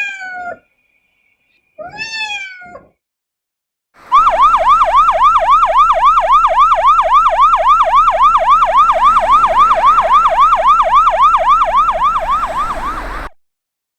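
Two cat meows, then an electronic yelp siren: a rapid rising sweep repeating about three and a half times a second for some nine seconds before cutting off.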